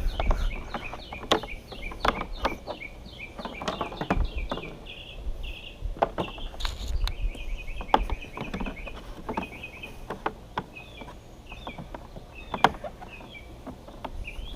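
Scattered knocks and clicks of stiff plastic hoses being pushed and bent into a watermaker membrane case. A bird chirps rapidly in the background, densest over the first few seconds and sparser later.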